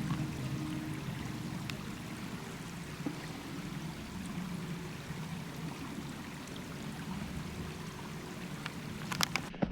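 Steady rushing outdoor noise, with a few faint ticks and a couple of sharp clicks near the end.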